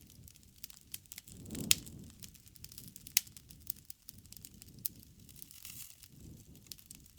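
Campfire crackling: a low rumble of burning wood with many sharp snaps and pops, the loudest about a second and a half in and another about three seconds in.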